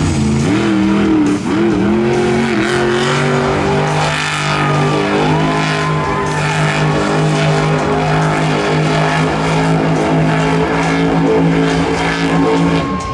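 Monster truck's supercharged V8 held at high revs while the truck spins donuts in dirt. The revs climb over the first couple of seconds, hold steady, then drop off just before the end.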